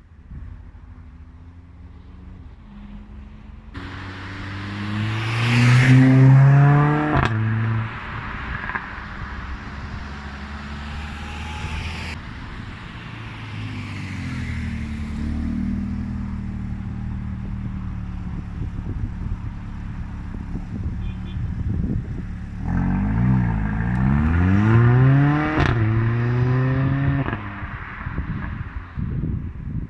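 Mercedes CLA45 AMG's turbocharged four-cylinder engine accelerating hard twice, revs climbing steeply about four seconds in and again a little past twenty seconds in. Between and after the pulls the revs fall away and the performance exhaust pops and crackles in quick irregular cracks.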